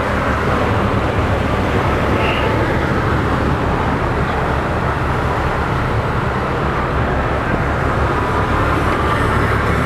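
Steady low drone of a Sunseeker 66 Manhattan's twin diesel engines running under way, with a constant rush of wind and water over it.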